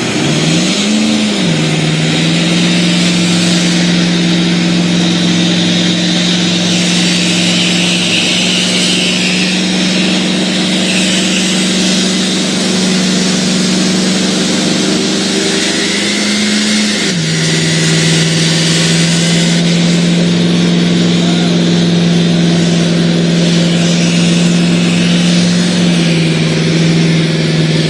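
A 2011 one-ton Ford pickup's engine is held at high revs during a burnout, with the rear tires spinning on the pavement. The engine's pitch dips and climbs back about a second in, then drops a step about 17 seconds in and holds steady.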